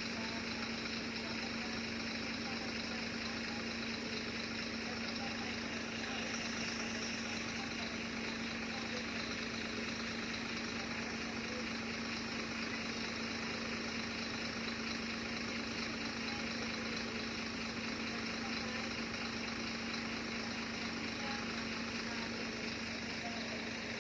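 Engine idling: a steady hum with one constant tone that does not change.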